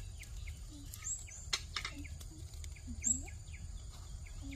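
Small birds chirping over and over in short falling notes above a steady low rumble, with a couple of sharp clicks about one and a half seconds in.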